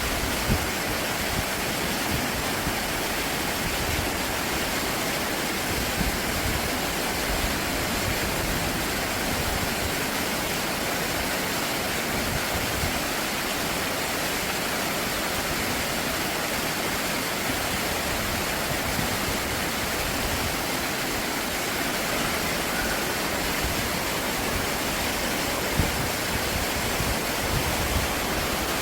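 Stream water rushing steadily over rocks, with a couple of faint knocks about half a second in and near the end.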